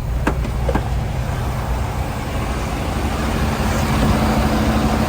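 Semi-truck diesel engine idling with a steady low rumble and hum, with a couple of sharp clicks in the first second.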